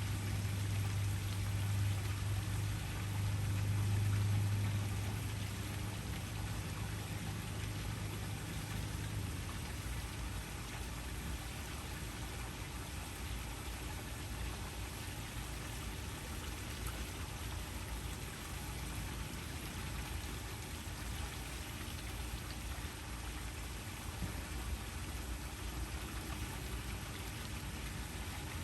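Waterfall: a steady rush of falling water. A low hum sits under it for the first nine seconds or so, then stops.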